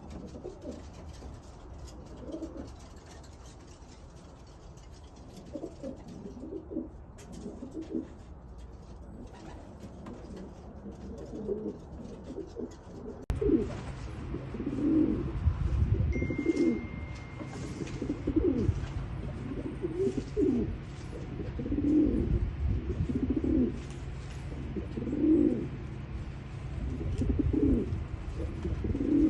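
Domestic pigeons cooing over and over, low calls every second or two. About halfway through, a steady low rumble comes in under them and the cooing becomes louder and more frequent.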